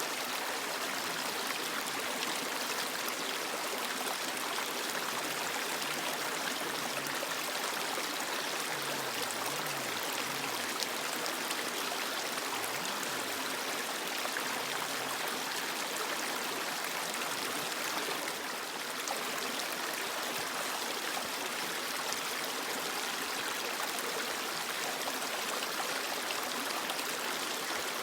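A creek flowing, a steady, even rush of running water.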